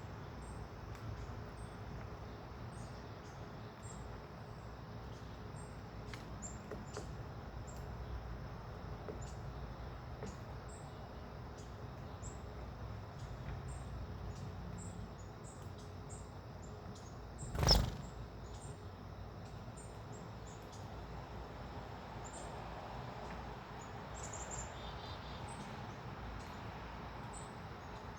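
Small birds at a feeder give many short, very high chirps throughout. About two-thirds of the way through there is a single sharp knock.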